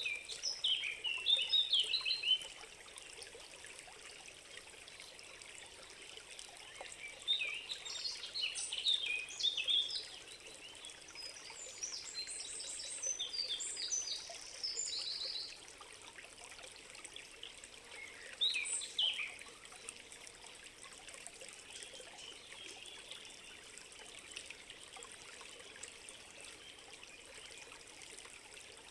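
A small stream trickling steadily while songbirds sing in four short bursts of high, quick chirping phrases, the last near the two-thirds mark.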